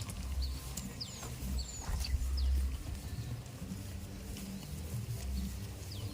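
Small birds chirping in many short, high, quick chirps, over repeated low rumbles that are the loudest sound.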